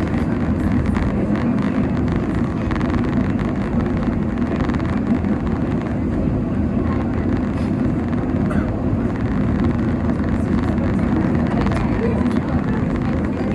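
Cable-hauled funicular carriage climbing the mountain track, heard from inside the cabin: a steady low rumble of wheels on the rails.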